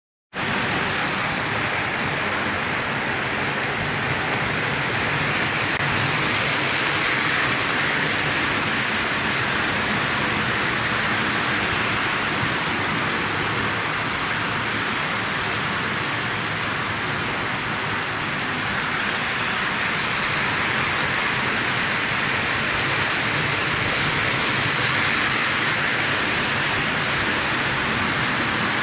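Postwar Lionel O gauge toy steam locomotive running around the layout: a steady rumbling rush of its metal wheels on three-rail track and its motor. The sound swells louder twice, about 18 seconds apart.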